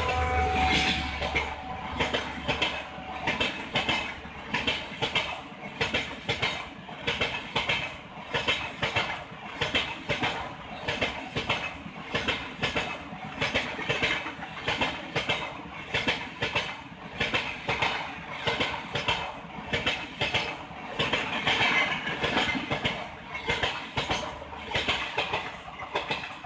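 Passenger coaches of an express train rolling past at speed, their wheels clattering over the rail joints in regular clusters of clicks about once a second. The locomotive's horn tails off in the first couple of seconds, and the clatter fades near the end as the last coaches go by.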